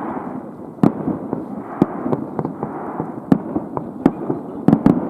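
Fireworks going off: a dense crackle under irregular sharp bangs, with a quick run of bangs near the end.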